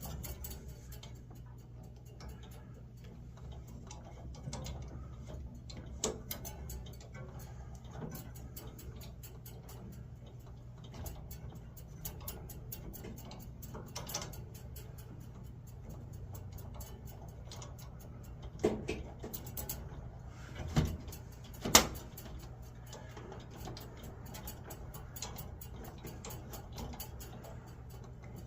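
Light clicking and metal ticks of a close-quarters tubing cutter being worked around copper refrigerant lines, with a few sharper knocks about twenty seconds in, over a steady low hum.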